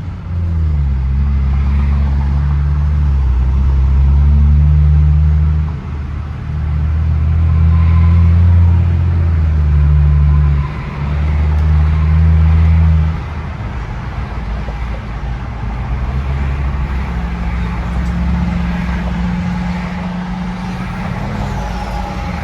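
Straight-piped exhaust of a BMW F10 sedan under way on the highway, heard from inside the moving car: a loud, low steady drone. It dips briefly twice, then a little past halfway drops to a quieter, lower level for the rest.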